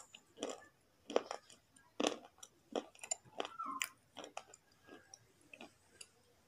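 Slate pencil being chewed close to the microphone: crisp crunches about every half second to second, softening to quieter chewing after about four seconds.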